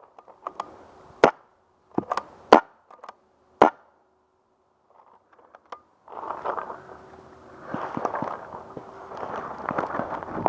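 Paintball markers firing: four sharp pops in the first four seconds. From about six seconds in they give way to quick, crunching footsteps of someone moving fast.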